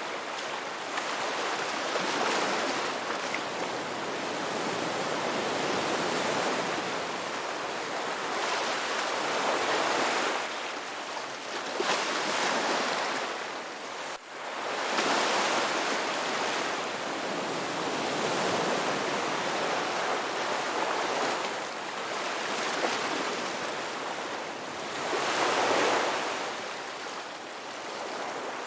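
Ocean waves breaking and washing up on a beach, a constant hiss of surf that swells and eases every few seconds, with a brief sudden dip about halfway through.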